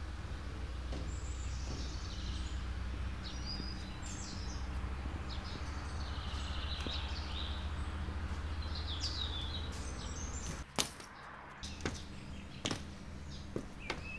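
Small birds chirping and calling over a steady low rumble that cuts off about eleven seconds in, after which a few sharp clicks are heard.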